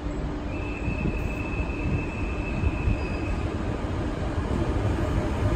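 Bombardier Traxx electric locomotive hauling ICR coaches into the platform, its low rumble growing louder as it nears. A high, steady squeal starts about half a second in and lasts about three seconds.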